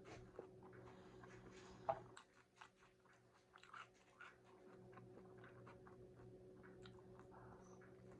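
Faint close-miked chewing and biting of a crunchy taco: irregular small crunches and mouth clicks, with one sharper crunch about two seconds in, over a faint steady hum.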